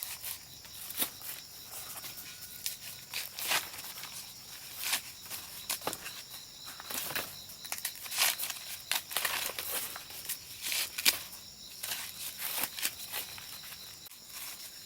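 Irregular rustling and crackling of dry plant leaves being handled and torn, over a steady high chirring of insects.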